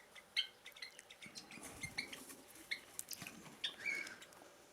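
Small aviary birds giving scattered short, high chirps and squeaks, mixed with light clicks and rustles.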